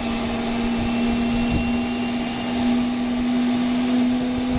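Jet engine running on the ground: a loud, steady whine over a strong hum that creeps slightly upward in pitch.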